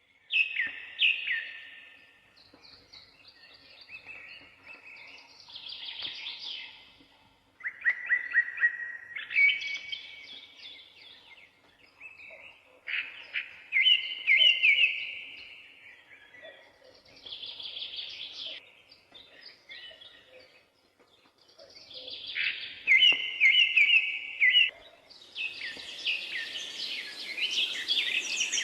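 A songbird singing, repeating short phrases of chirps and quick trills every several seconds, with fainter bird calls between them. Near the end a steady hiss rises under the song.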